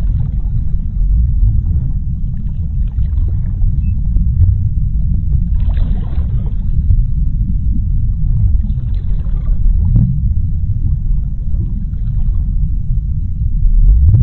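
Deep underwater ocean ambience: a steady low rumble, with a few soft swells of fainter hiss above it.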